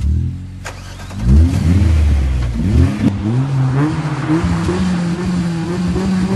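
Car engine revved in a series of quick blips, its pitch jumping up and falling back several times, then climbing and holding at a steady higher pitch.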